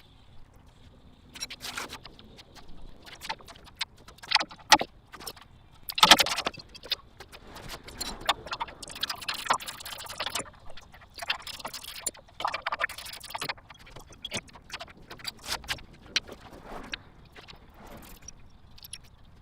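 A busy run of metallic clinks, clicks and knocks with stretches of scraping and rattling, from hand tools and parts being worked during an engine removal.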